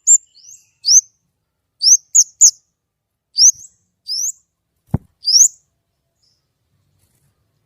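A songbird known to Indonesian bird keepers as the kemade, singing a series of sharp, clear, rising whistled notes, one or two a second, which stop a little past halfway. A single dull thump comes about five seconds in.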